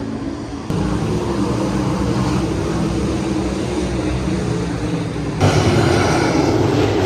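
Sprint car engines running loud on a dirt track. The level jumps suddenly about a second in and again past five seconds.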